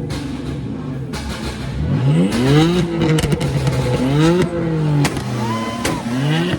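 A car engine revved several times in a row, the pitch climbing with each blip and falling back, with sharp cracks in between.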